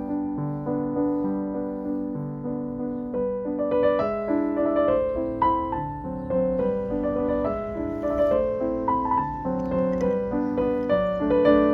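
Background music: soft piano playing gentle, overlapping held notes at an even pace.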